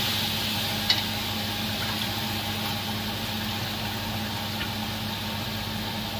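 Raw chicken frying with onion masala in a large iron kadai: a steady sizzle that eases off over the first few seconds as the cold meat cools the pan. A sharp metal clack about a second in, and a constant low hum underneath.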